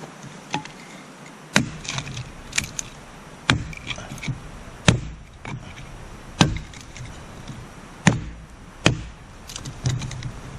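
Small axe chopping wood: about eight sharp strikes at uneven intervals, roughly one a second.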